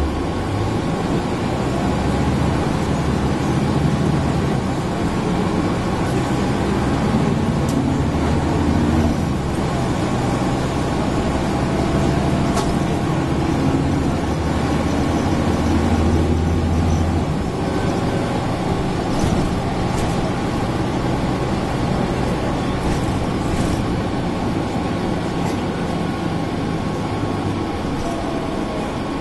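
Mercedes-Benz O405N city bus heard from inside on the move: the engine pulls with a shifting pitch, then eases off about two-thirds of the way through. The air conditioning runs steadily alongside it.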